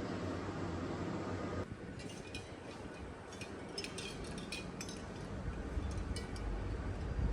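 Dishes, glass and cutlery clinking lightly in a string of small, quick clicks. A steady hiss stops abruptly about a second and a half in.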